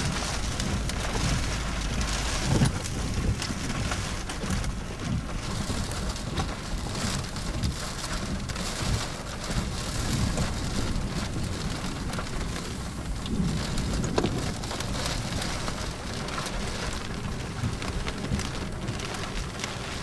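Heavy rain pelting a car, a dense patter of drops hitting over a steady low rumble.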